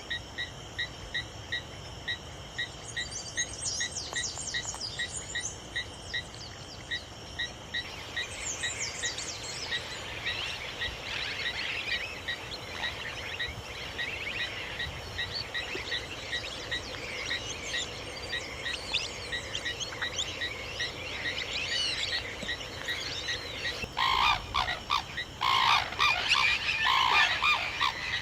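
Outdoor chorus of wild bird calls: high twittering chirps over a regular pulsing chirp a few times a second that stops about eight seconds in, then denser calling. Near the end, loud repeated honking calls from large birds take over.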